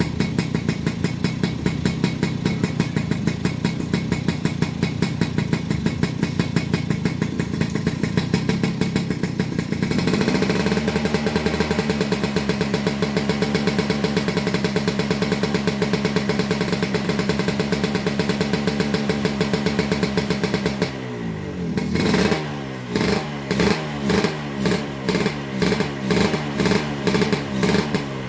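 2004 Suzuki Satria 120 RU two-stroke single-cylinder engine running at a steady speed. About ten seconds in it settles at a slightly higher speed, and in the last third it is blipped repeatedly, rising and falling a little more than once a second.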